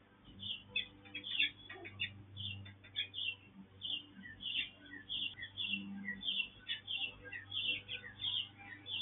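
A small bird chirping steadily, giving short high chirps about two or three a second.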